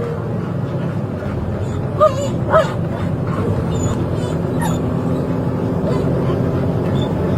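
A dog yelping, two short wavering cries about two seconds in and fainter ones later, over a steady vehicle rumble.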